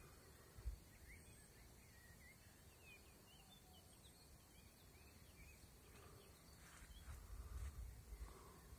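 Quiet outdoor ambience with faint, short bird chirps for the first few seconds. Low rumbles on the microphone come briefly just under a second in and again about six to eight seconds in.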